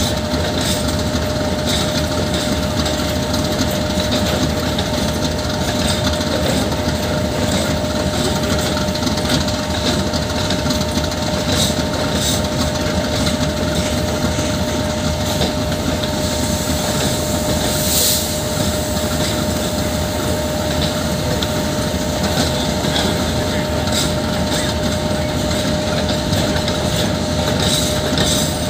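GEU 40 diesel-electric locomotive idling with a steady whine, while a train of freight wagons rolls slowly past on the next track with occasional wheel clicks over the rail joints.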